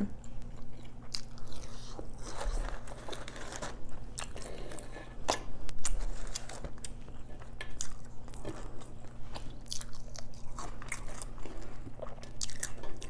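Close-miked eating: repeated biting and chewing, with crunches and wet mouth clicks coming irregularly.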